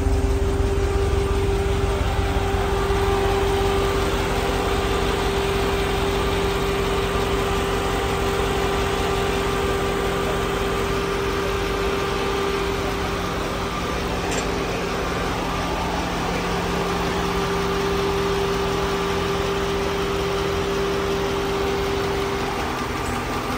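Freshly installed LS3 6.2-litre V8 engine idling steadily after its first start-up in a Range Rover Classic engine swap.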